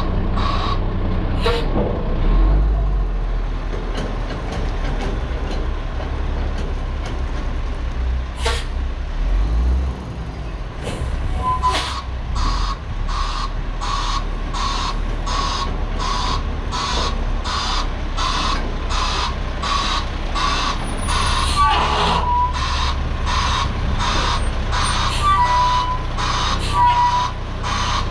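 Garbage truck's diesel engine running at low revs while its reversing alarm sounds in short, even pulses, about one and a half a second. The pulses stop about two seconds in and start again about eleven seconds in.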